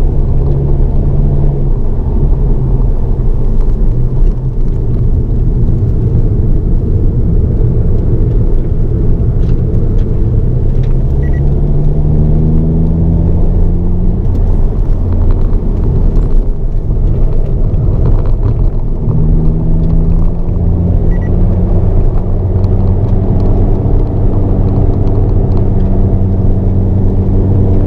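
Hyundai Avante N (Elantra N) 2.0-litre turbocharged four-cylinder engine heard from inside the cabin, pulling hard under load, its pitch climbing as the car accelerates a little before halfway and again about two-thirds in, over a steady low rumble of the road.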